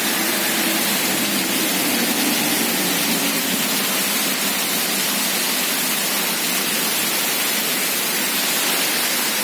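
Heavy rain driven by a strong storm wind, a steady, dense rushing noise with no let-up.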